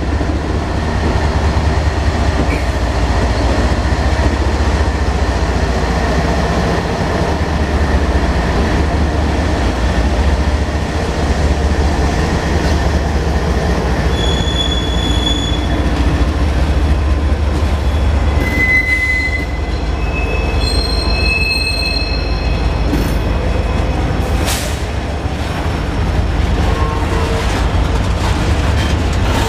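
CSX freight train passing close by: the lead diesel locomotives' engines give a loud, steady low drone, then the freight cars roll past with clattering wheels. Short high-pitched wheel squeals come and go midway through.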